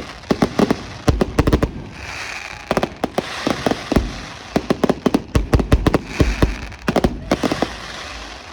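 Fireworks going off in rapid volleys of sharp bangs, with a hissing crackle between the volleys.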